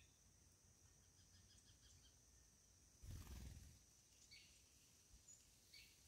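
Faint bird chirps: a quick run of short high notes, then two single chirps, with a brief low rumble about three seconds in.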